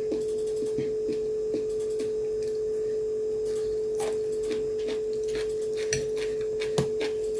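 A steady, single-pitched electrical-sounding hum with scattered small clicks and taps of eating, chopsticks and bowl, over it; one sharper tap near the end.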